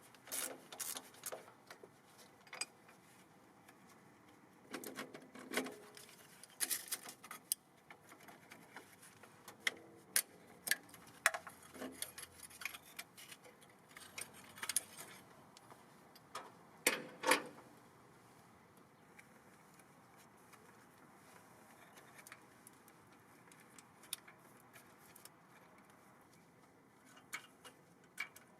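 Scattered clinks and taps of hand tools and small metal parts being handled, coming in short clusters with quiet gaps; the sharpest clink comes about two-thirds of the way in. No engine is running.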